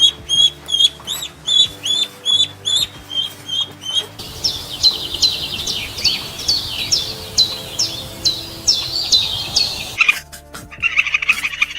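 Birds chirping: a quick series of short, even chirps, then after about four seconds a different run of rapid notes that each drop in pitch, and a buzzier call near the end. Soft background music underneath.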